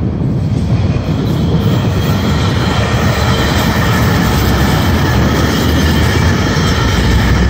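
Commuter train of bi-level passenger coaches rolling past close by: a steady rumble of steel wheels on rail with thin high wheel-squeal tones over it, growing louder near the end.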